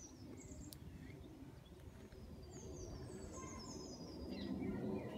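Faint birdsong: a small songbird gives a quick run of short, high, falling notes about halfway through, over a low outdoor background noise that grows louder near the end.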